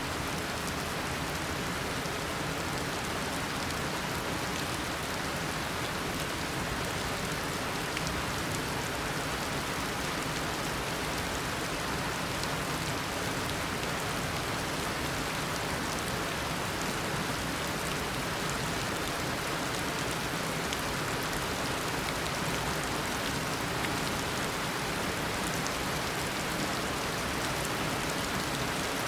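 Steady heavy rain of a tropical rainstorm, an even hiss of falling rain with fine drop ticks and no lulls.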